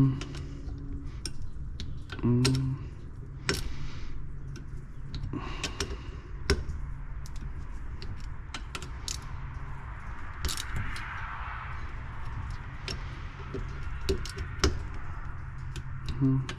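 Scattered metallic clicks and clinks of a hand wrench on the bolts of a Comet pressure washer pump as they are snugged down one by one, over a steady low hum.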